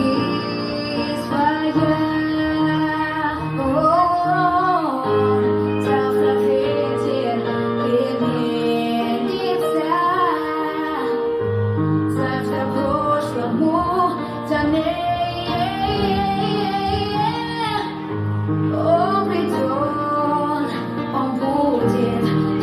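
Song with a female voice singing a flowing melody over steady instrumental backing.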